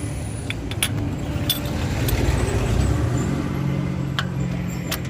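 A motor vehicle engine running, a steady low hum that grows stronger about three seconds in, with scattered sharp metallic clicks and taps.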